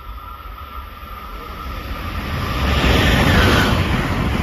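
Amtrak Acela Express high-speed trainset passing at speed: a rushing rumble of wheels and air that builds over the first two seconds and peaks about three seconds in.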